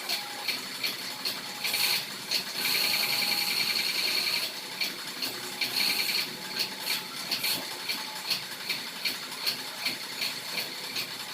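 High-pressure washer spraying water in short hissing spurts, about three a second, with one steady blast of spray lasting about two seconds near the middle.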